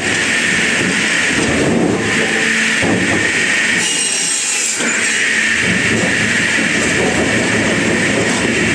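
Wood-processing machinery running with a loud, continuous mechanical noise, and a brief higher hiss about four seconds in.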